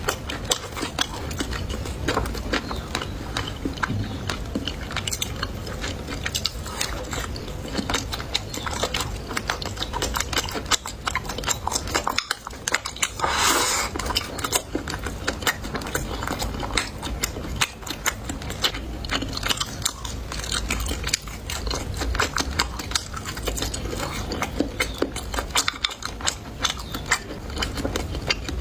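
Close-miked eating: a person chewing and biting food with dense, irregular wet mouth clicks and crunches. A louder noisy burst lasting about a second comes near the middle.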